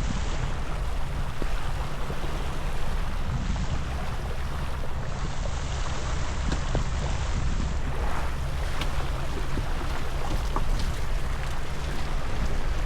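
Wind buffeting the microphone, a steady low rumble, over the rush of water along the hull of a Beneteau First 305 sailing yacht under sail in a breeze of about 11–13 knots.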